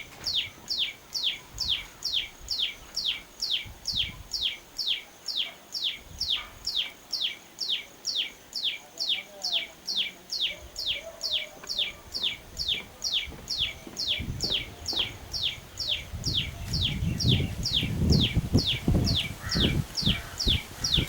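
A tiny songbird repeating one short, high, down-slurred note about twice a second, very evenly throughout. From about two-thirds of the way in, a low rumbling noise rises underneath.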